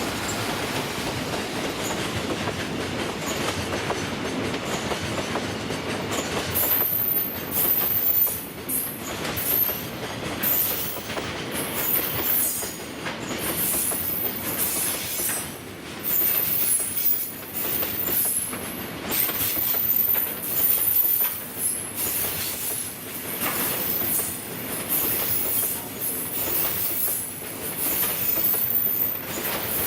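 Freight train of Taki tank wagons hauled by an EF210 electric locomotive rolling past: a steady rumble of wheels on rail, then from about seven seconds in a high-pitched wheel squeal and rhythmic surges as the wagons clack over the rail joints.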